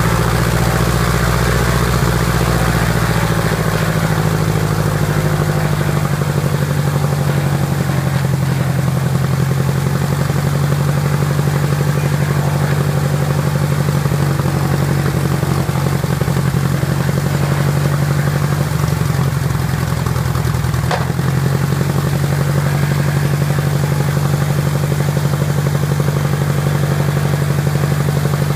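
Freshly rebuilt Piper Apache aircraft engine running steadily at low speed on its first run-up. Its note shifts briefly about two-thirds of the way through, with a single sharp click, then settles back to the same steady note.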